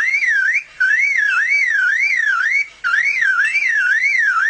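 Superb lyrebird mimicking a car alarm: a loud whistle warbling up and down about three times a second, in phrases with short breaks about half a second in and again near three seconds in.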